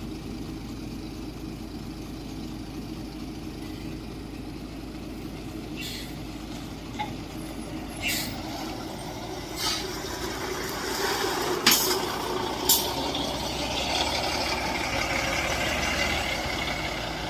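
Large bus diesel engine running, with five short, sharp hisses of air brakes spread through the middle; the engine noise grows louder in the second half as a bus draws near.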